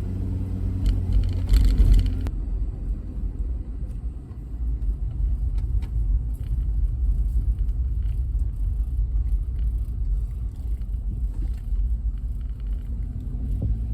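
Car driving: a steady low engine and road rumble, with a faint engine hum in the first couple of seconds.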